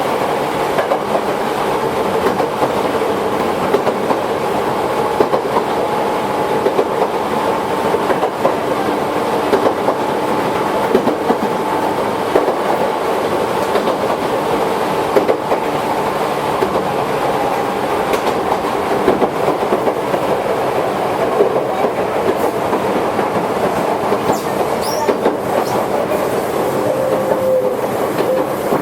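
Toyohashi Railway 1800 series electric train running along the line: steady running noise with clicks of the wheels over rail joints now and then, and a faint squeal near the end.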